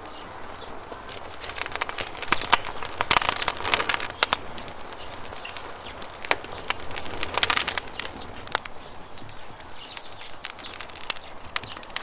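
Wood campfire crackling, with sharp pops that come in quick clusters, over a steady rush of river water.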